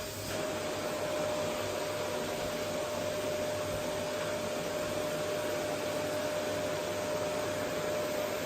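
Vacuum cleaner running steadily: a continuous rush of air with a steady whine from the motor.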